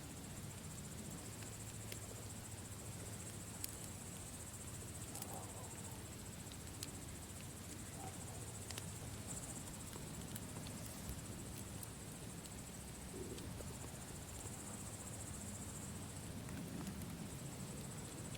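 Campfire crackling with scattered sharp pops, over a continuous high chirring of crickets and a low steady rustle.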